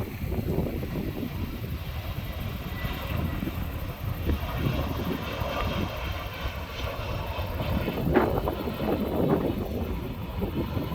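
Airbus A320 jet airliner landing: the continuous rumble of its turbofan engines, with a faint high whine through the middle.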